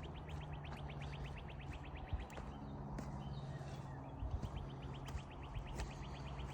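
A small bird's fast, even trill of rapid high notes, heard twice for about two seconds each, over a steady low hum.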